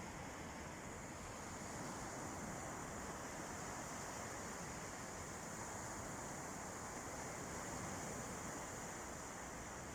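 Sea surf washing on a beach as a steady, even hiss, with no single wave break standing out.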